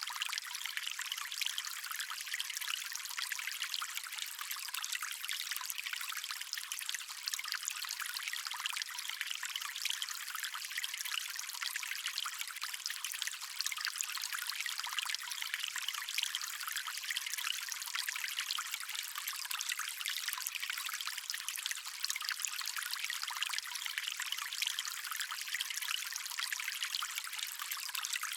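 Water stream running steadily, a continuous thin, hissy rush of flowing water with no low rumble.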